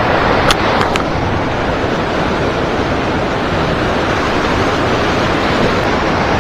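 Steady rush of river current flowing around a wading angler, with three short sharp clicks about half a second to a second in.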